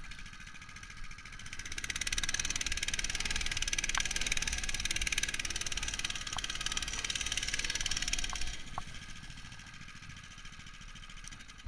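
Small engine running with an even firing rhythm. It grows louder about two seconds in and eases back down past eight seconds, muffled as heard through the camera's protective case.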